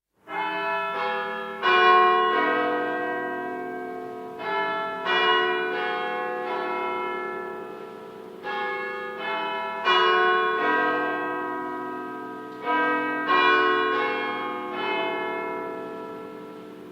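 Bells struck in groups of two or three strokes about every four seconds, each stroke ringing on and slowly fading.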